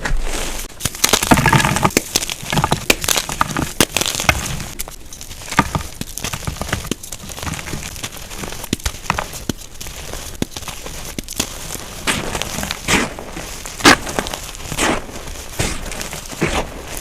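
Blocks of unpolished gym chalk being crushed, crunching and crumbling with many sharp cracks, the loudest a single sharp crack near the end. Sped up to double speed.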